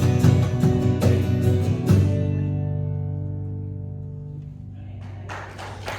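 Acoustic guitar strumming the closing bars of a worship song, then a final chord left to ring out and fade over a couple of seconds. A broad, unpitched noise rises near the end.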